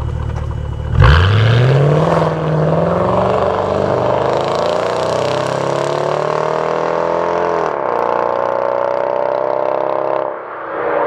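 Mercedes SL55 AMG's supercharged V8 through an aftermarket valve-controlled exhaust, idling, then accelerating hard about a second in. The engine note climbs steadily for several seconds, dips briefly at a gear change near eight seconds, climbs again and eases off near the end.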